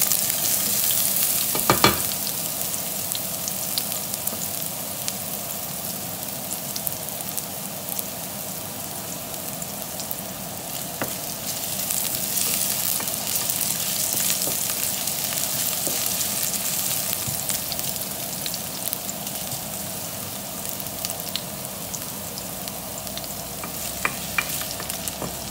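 Julienned ginger sizzling in hot oil in a stainless steel pot, stirred with a wooden spatula that scrapes and taps against the pot now and then. A sharp tap about two seconds in is the loudest sound.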